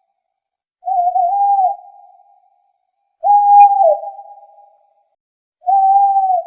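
A bird's hooting call, one steady single pitch, repeated three times about two and a half seconds apart, each hoot lasting under a second with a fading echo-like tail.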